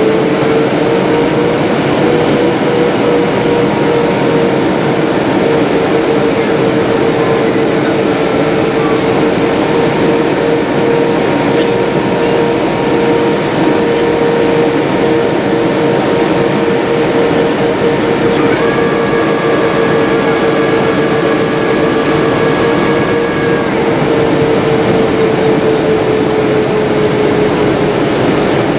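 Jet airliner cabin noise in flight: a steady rush of air with the engines' drone, whose tone rises slightly about two seconds in and eases down again near the end. A fainter, higher whine joins for about five seconds in the latter part.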